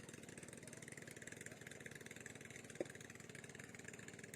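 A small engine running steadily, with one brief sharp blip about three seconds in.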